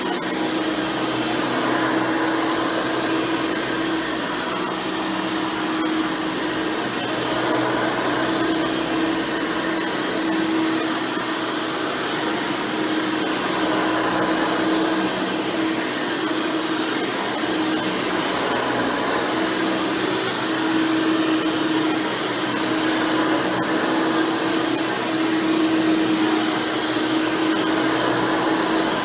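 Hoover Elite Supreme upright vacuum cleaner running steadily, its motor with a 20-blade fan and a single-row stiff-bristle brush roll spinning. It makes a continuous rushing noise with a steady mid-pitched hum, and the level rises and falls a little.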